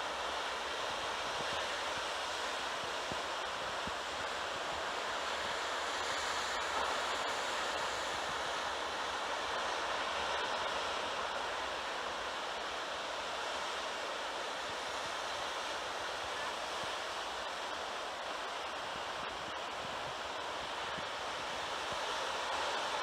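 Heavy surf after a typhoon: a steady, continuous rush of breaking waves.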